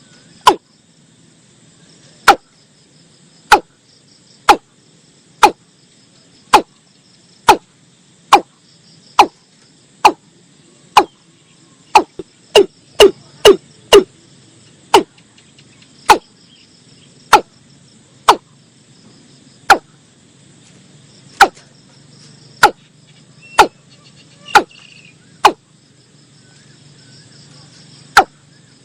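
Watercock calling: a series of loud, short notes, about one a second, with quicker runs near the start and about halfway through.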